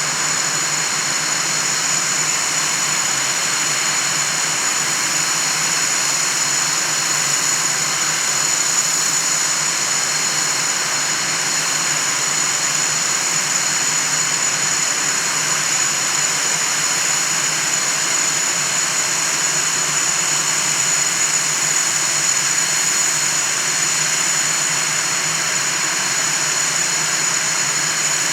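Northrop F-5E Tiger II's twin General Electric J85 turbojets running steadily, a constant jet roar with a piercing high whine over it.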